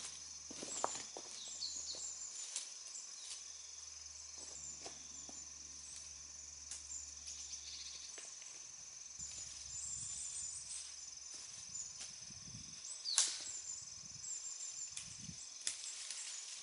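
Outdoor ambience: a steady high-pitched insect drone, with scattered small clicks and snaps and a few short bird chirps. The loudest moment is a sharp snap about thirteen seconds in.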